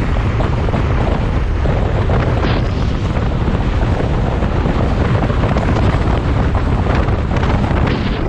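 Heavy wind buffeting the microphone: loud, steady rumbling noise, strongest at the low end.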